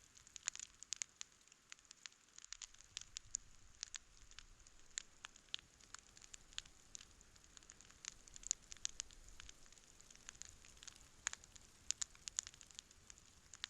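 Wood campfire crackling: many sharp, irregular pops and snaps, several a second, over a faint steady hiss.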